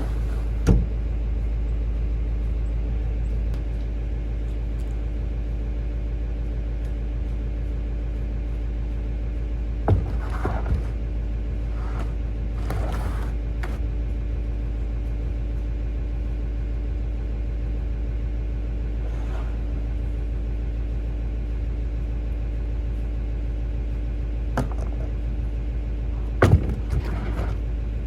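An engine running steadily under a heavy deep rumble, with a few short knocks, about ten seconds in and near the end.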